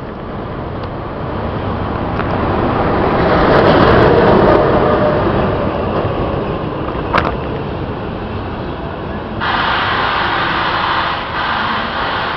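Train running past, a rumble with rail noise that swells to a peak about four seconds in and then eases, with a sharp click near the middle and a sudden rise in hiss near the end.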